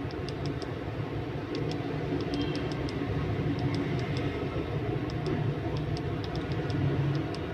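Steady low hum and room noise with scattered faint clicks, and no ringtone or other sound from the phone: its loudspeaker is silent because of a board fault in the speaker circuit.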